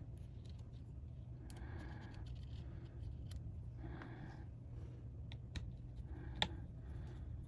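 Small scattered clicks and ticks of hand tools on a laptop's internal parts, with one sharper click about six and a half seconds in, over a steady low hum.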